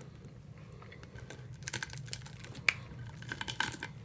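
Chewing and crunching a mouthful of waffle cooked crisp like chips, with barbecue chicken and syrup, close to the microphone: a scatter of small, irregular crackles that grow busier partway through.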